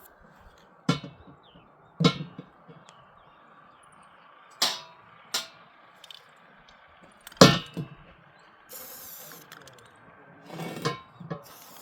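Metal pieces clanking and knocking: five sharp strikes spread a second or more apart, the loudest about seven seconds in, followed by a short hiss.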